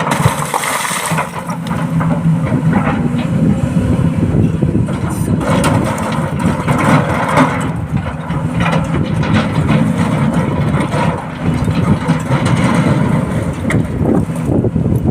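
A heavy diesel engine running steadily, from the excavator or a truck it is loading. Louder noisy surges come and go over it.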